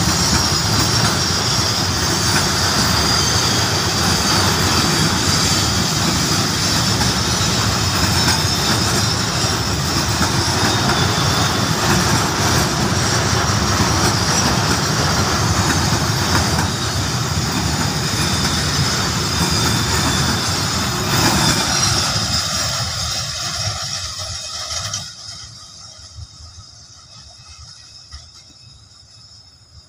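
Container freight train wagons rolling past: steady rumble and clatter of steel wheels on rail with a high squeal running over it. The sound drops away sharply about 25 seconds in as the last wagon goes by, then fades as the train recedes.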